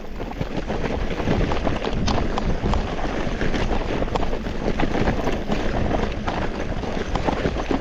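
Marin mountain bike rolling downhill over loose rocks: tyres crunching on gravel and the bike rattling with many small, rapid knocks, with wind buffeting the microphone.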